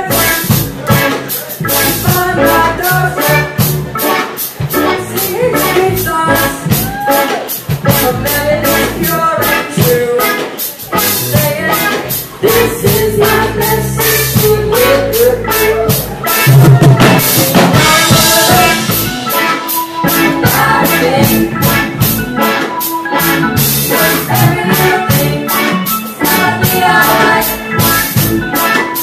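Live band playing an instrumental reggae passage, drum kit keeping a steady beat under sustained instrument notes, with a louder swell and cymbal wash about halfway through.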